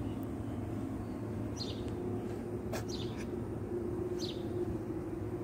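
A bird gives three short, high chirps, spaced about a second and a half apart, over a steady low hum.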